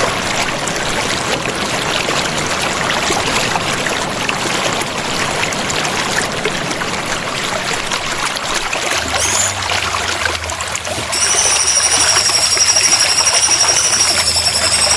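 Running water trickling and splashing steadily. About eleven seconds in, a high, steady, slightly wavering tone comes in over it.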